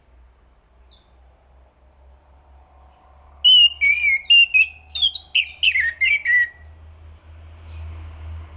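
Chestnut-capped thrush singing: a phrase of clear, quickly changing whistled notes about three seconds long, starting a few seconds in.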